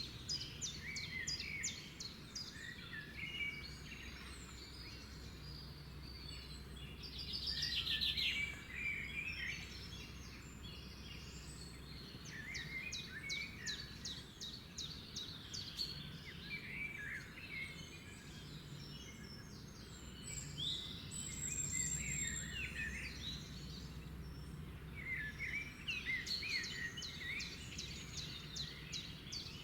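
Several songbirds singing and calling at once: rapid trills and short chirps overlapping, with a louder burst of trilling about eight seconds in, over a steady low background hum.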